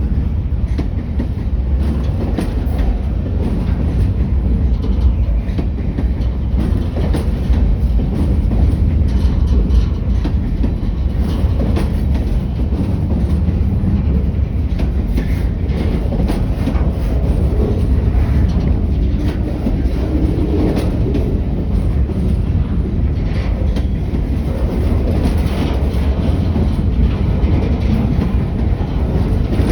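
Train rolling past, a steady low rumble with wheels clicking over the rail joints.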